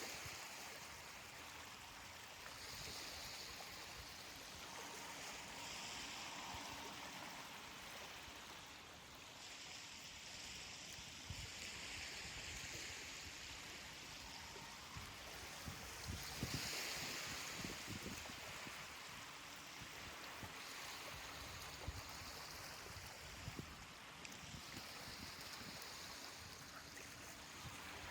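Ocean waves washing onto a beach: a soft, steady hiss of water that swells and fades every few seconds.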